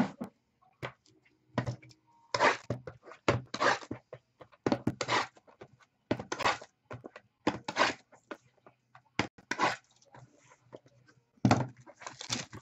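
Trading card packaging and cards being handled: repeated short crinkling, rustling bursts, roughly one a second.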